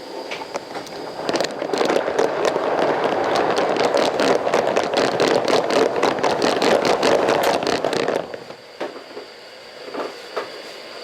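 Steam locomotive 4633 working, its exhaust beats coming in a quick even series of about four a second over a steady hiss, then stopping about eight seconds in. A couple of single clicks follow near the end.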